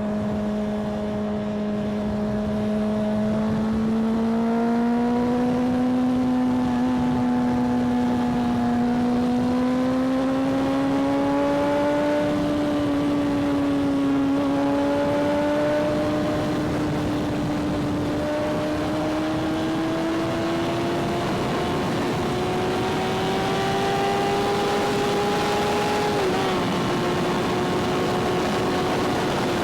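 Motorcycle engine running under way, its pitch climbing slowly and unevenly as it gathers speed, with a brief dip and wobble near the end.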